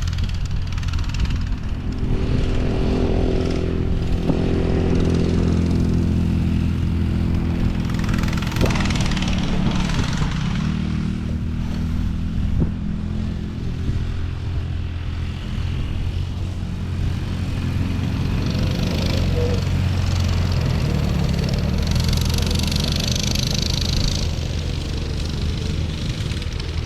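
Small off-road vehicle engine running and revving, its pitch rising and falling as the throttle changes.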